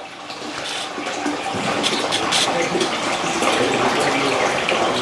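Waste water running out of a washing machine's drain hose as the tub drains, a steady rush of water that grows louder over the first second.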